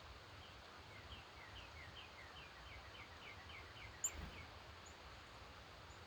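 A songbird singing a faint series of short, down-slurred whistled notes, about three a second and quickening slightly, over a steady background hiss. About four seconds in, a brief high chirp and a short low thump.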